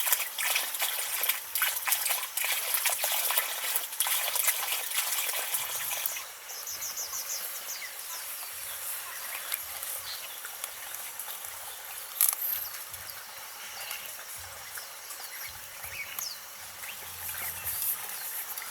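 Water splashing and trickling, busy with small clicks and spatters for about six seconds, then quieter, with faint short high chirps over it.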